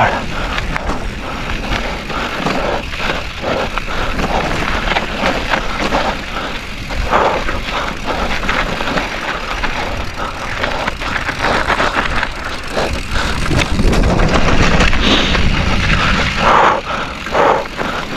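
Mountain bike riding down a rough dirt trail: tyres rolling and crunching over rocks and dirt, with frequent knocks and rattles from the bike.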